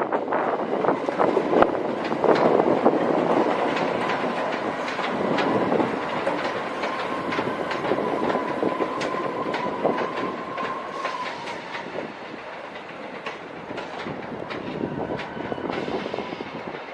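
Train rolling through the station, its wheels clicking irregularly over rail joints and pointwork with a faint steady whine, growing quieter as it moves away.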